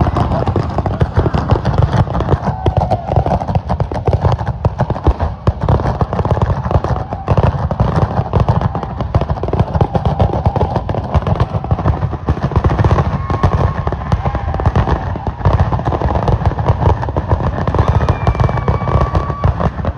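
Heavy rain falling: a loud, dense, steady crackle of drops.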